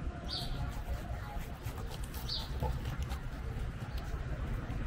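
A bird giving short high chirps, one about every two seconds, over a steady low rumble of background noise.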